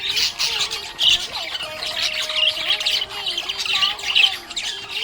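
Budgerigars chirping and chattering: a dense, continuous stream of quick, high chirps.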